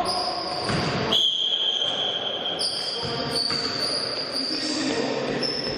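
Basketball game play: the ball bouncing on the court, with many high-pitched squeaks overlapping throughout and some voices.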